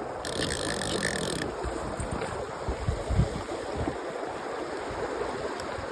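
A Loop Classic fly reel's drag buzzes for about a second as the hooked steelhead pulls line, starting and stopping abruptly. Under it, steady rushing river water and wind on the microphone.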